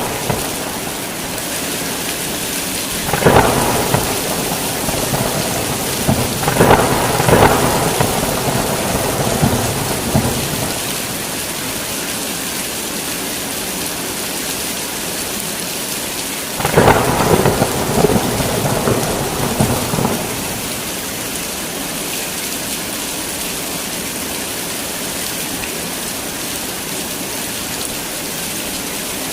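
Heavy rain falling steadily, with thunder breaking in three rolls: about three seconds in, again from about six to ten seconds, and once more from about seventeen to twenty seconds.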